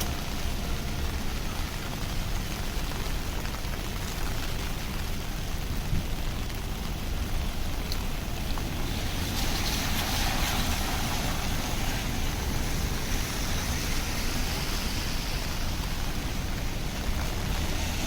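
Steady rain on a city street with a low rumble of traffic. About nine seconds in, a louder hiss swells for a few seconds, like a vehicle passing on the wet road.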